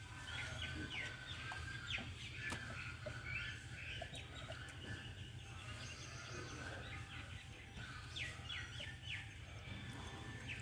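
Birds calling faintly with many short, quick chirps, in clusters in the first few seconds and again near the end, over a low steady hum.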